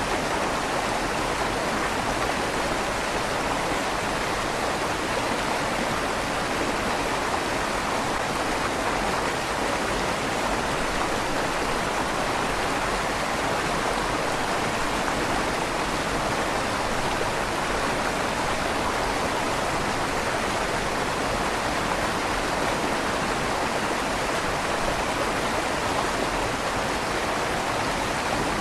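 River water flowing steadily under a stone bridge, a continuous rushing with a slight echo off the tunnel walls.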